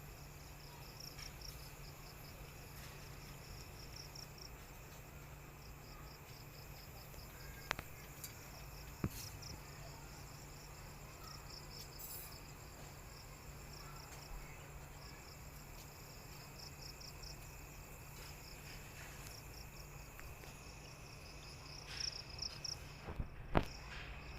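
Crickets chirping in repeated pulsed trills over a steady low hum, with a few faint clicks in the middle and near the end.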